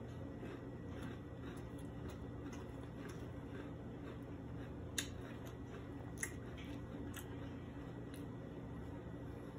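Faint chewing of crunchy mixed cereal with milk, including Cap'n Crunch, mouth closed, in soft regular crunches about twice a second over a steady low hum. A metal spoon clicks twice against the plastic bowl, about five and six seconds in.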